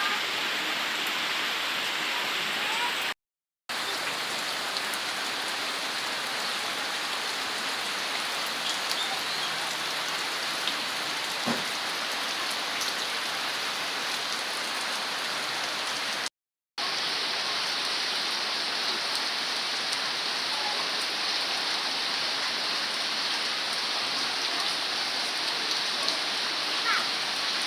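Heavy rain falling steadily, a dense even hiss with faint scattered drop ticks; the sound cuts out completely twice for a split second.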